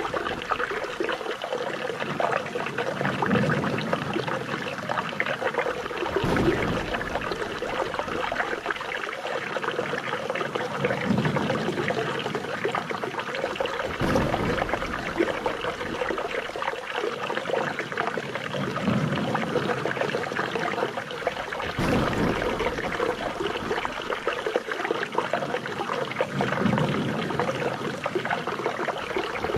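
Flowing water trickling and pouring steadily, the same stretch of sound repeating about every eight seconds.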